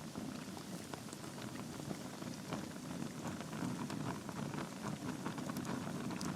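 Wood fire burning in a fireplace: a steady low rush of flame with many small, sharp crackles and pops of the burning logs scattered through it.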